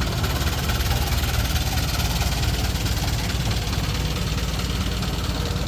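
A vehicle engine idling close by, a steady low rumble, over the even hiss of falling rain.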